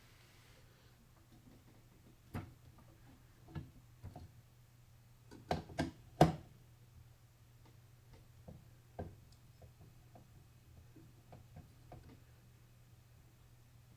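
Scattered clicks and knocks of PC parts and tools being handled during assembly, loudest as a quick run of three knocks around the middle, over a steady low hum.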